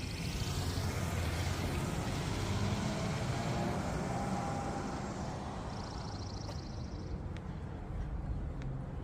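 A road vehicle passing by, its rushing noise building over the first few seconds and then slowly fading away. A short high, rapid trill sounds at the start and again about six seconds in.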